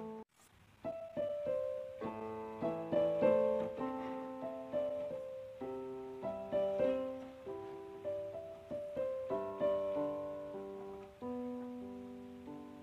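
Solo piano music playing a gentle melody with chords, each note struck and fading away; it breaks off briefly just after the start, then resumes, and ends on a held note that dies away.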